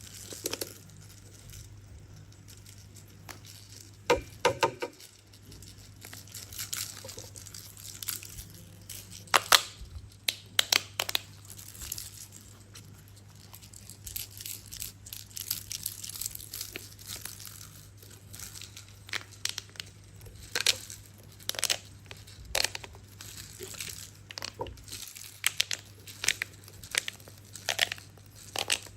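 Toys being handled and moved about, making irregular clicks, knocks and short rustles, with a steady low hum underneath.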